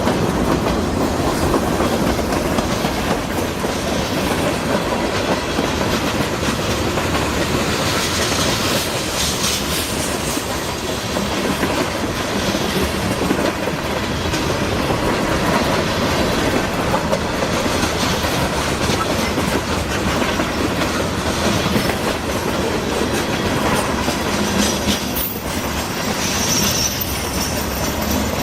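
CSX freight train's cars rolling past steadily, wheels clicking over the rail joints, with a brief high squeal near the end.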